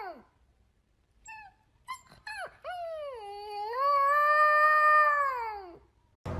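A dog giving a few short yelps, then one long howl that holds steady and falls off at the end.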